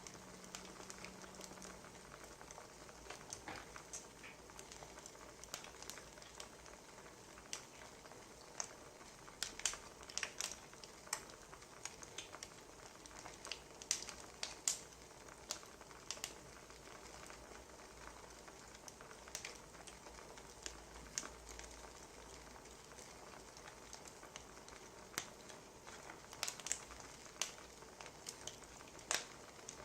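Burning firewood crackling, with a steady low hiss and irregular sharp pops and snaps.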